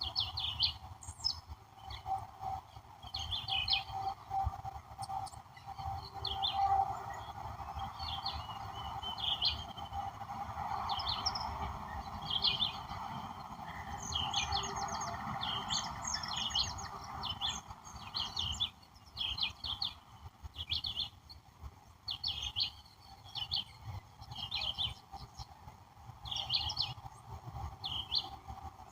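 Birds chirping and calling in short high notes, repeated every second or so, over a steady background hum of outdoor noise.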